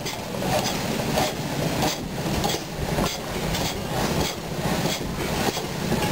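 Antique gas engine running with an even, rhythmic exhaust beat, about two beats a second.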